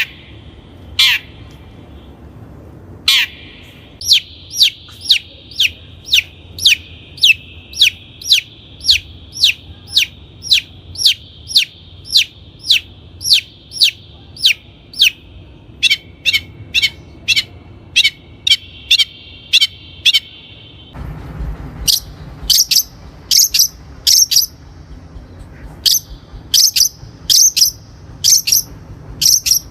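Long-tailed shrike repeating short, sharp, harsh call notes that sweep downward, about two a second. About 21 s in, the recording changes and the notes become higher and come in quicker groups.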